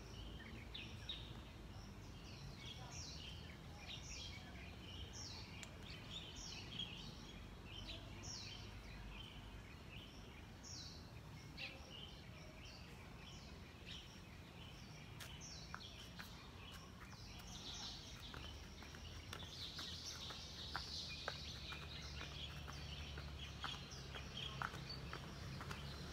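Birds chirping with many short, repeated high calls, busiest about three-quarters of the way through, over a low steady hum that grows stronger in the last third.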